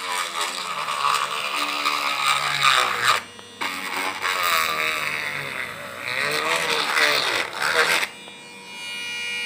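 Small electric drill running and cutting into a plastic container to widen a hole, its pitch wavering as the bit bites. It stops briefly about three seconds in, then runs again and cuts off about eight seconds in.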